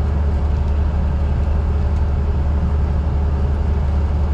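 Heavy diesel engine running steadily, a deep even rumble with no change in pitch or load.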